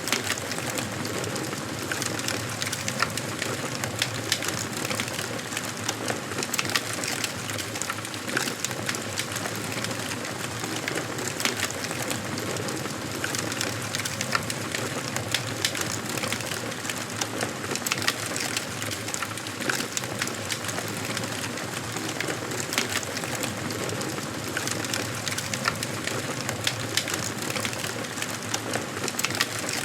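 Wood fire burning in a fireplace, crackling with frequent small pops and snaps over a steady hiss.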